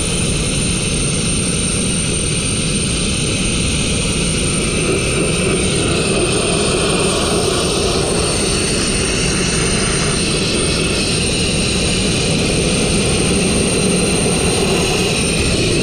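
Abrasive blasting nozzle spraying fine crushed glass grit: a loud, unbroken rushing hiss with a thin, steady high whine on top.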